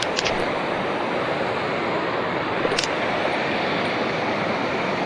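Mountain stream water rushing steadily, with a few light clicks at the start and again about three seconds in.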